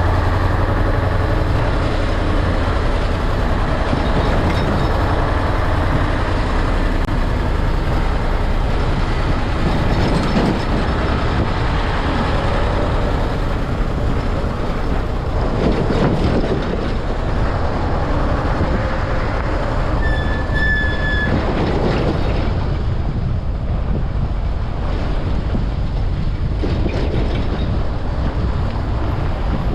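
Heavy road traffic running steadily: a continuous loud rumble of passing vehicles, with a brief high squeal about twenty seconds in.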